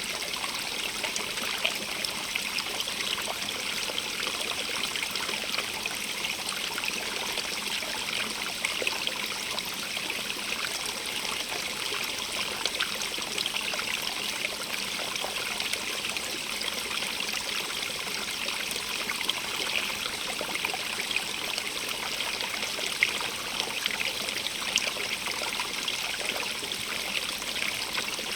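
A stream running steadily over stones, a continuous rushing and trickling with no single sound standing out.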